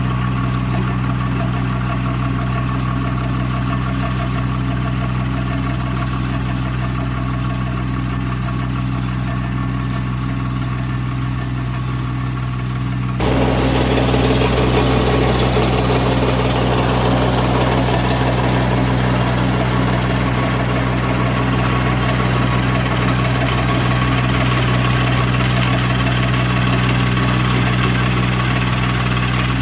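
Massey Ferguson GC1710 sub-compact tractor's diesel engine running steadily at a constant speed. About 13 seconds in, the sound abruptly gets louder and noisier while the engine note holds the same pitch.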